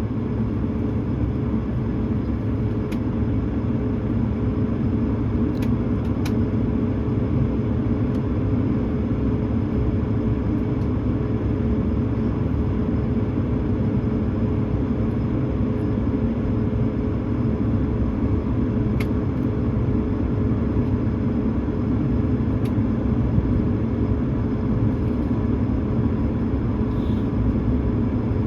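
Steady cabin noise of an Airbus A220-300 with its Pratt & Whitney geared turbofans running: an even rumble with a steady droning tone, and a few faint clicks.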